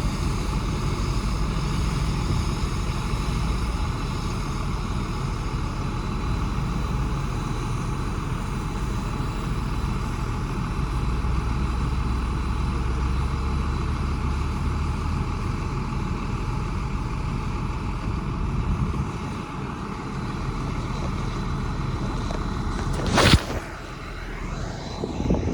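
Heavy diesel earthmoving machinery running steadily with a low rumble. A single sharp click sounds near the end, after which the engine noise drops away.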